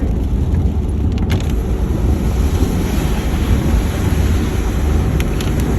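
Steady engine and road rumble of a moving vehicle, heard from inside the cabin, with a few faint clicks.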